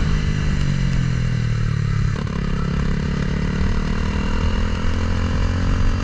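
Single-cylinder engine of a CBR300R-swapped Honda Grom running hard under load, its pitch sagging slightly for the first two seconds, breaking briefly about two seconds in, then holding steady.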